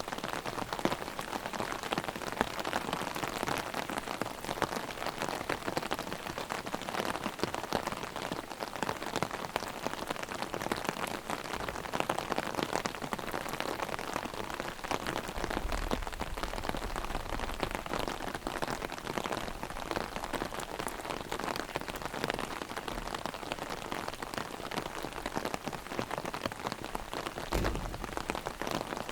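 Heavy rain drumming on an umbrella overhead: a dense, steady patter of drops hitting the canopy, with a faint low rumble about halfway through.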